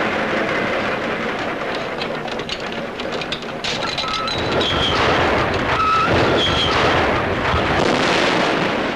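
Loud, continuous rumble and clatter of railway wagons, with short high metallic squeals between about four and seven seconds in. It grows loudest in the last few seconds as the train derails.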